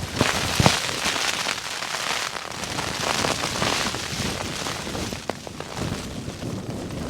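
Nylon tent groundsheet crackling and rustling as it is unhooked and pulled back inside a small backpacking tent, a dense run of crinkles and small snaps.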